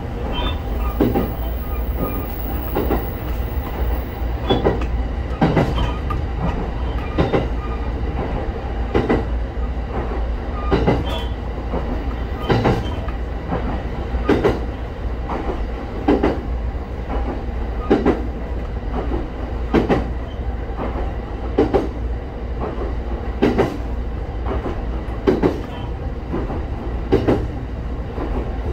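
Local passenger train running on the Shinano Railway Kita-Shinano Line: a steady low running rumble with the wheels clacking over rail joints about every two seconds.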